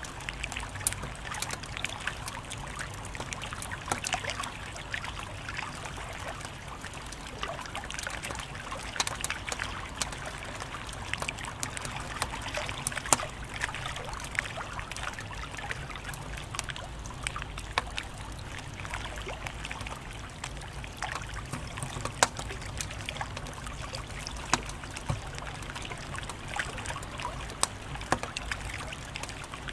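Wood fire crackling, with frequent sharp irregular pops and snaps over a steady low hiss and rumble.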